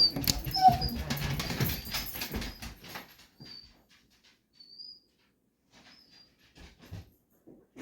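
Dogs barking, thickest for about the first three seconds, then falling away to near quiet with a few faint, short high chirps.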